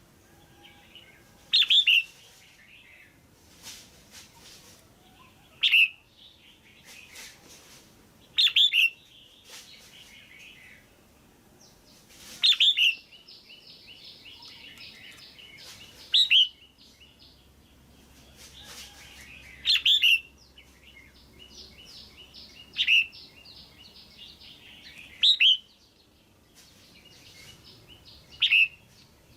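Female red-whiskered bulbul calling: a loud, sharp call about every three to four seconds, with softer rapid chattering between the calls.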